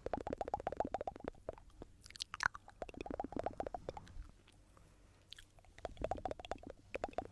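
Stones rubbed together close to the microphone: quick runs of small clicks, about ten a second, broken by pauses, with a brief high scrape between the first two runs.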